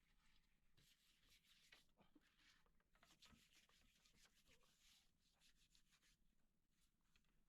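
Near silence, with faint irregular rubbing and scraping sounds.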